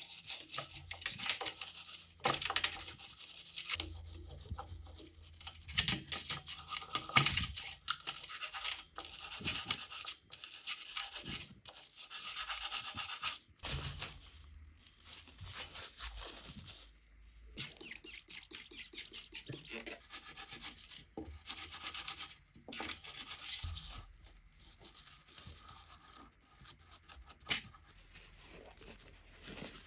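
Rapid, irregular hand scrubbing or rubbing strokes, like a brush or abrasive worked back and forth over a part, continuing with brief pauses.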